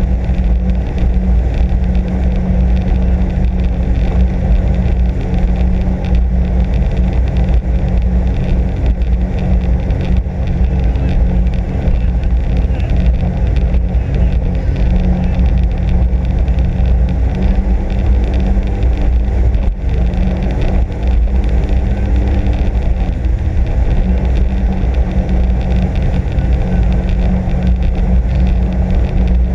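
Sea-Doo RXP-X 260 jet ski's supercharged three-cylinder engine running loud and steady under way, with a brief dip about two-thirds of the way through.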